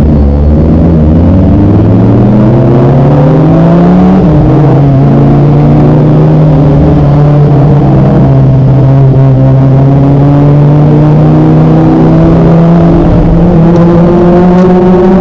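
Kawasaki ZX25R's 250 cc inline-four engine under way: the revs climb for about four seconds, drop sharply at a gear change, then hold and rise slowly.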